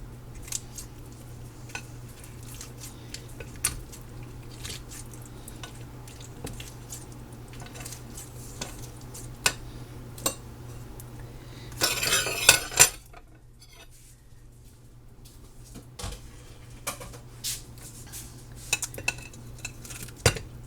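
Metal utensils clinking and scraping on dishes as grilled chicken is served up. There is a burst of louder scraping about twelve seconds in. A low steady hum underneath stops just after it.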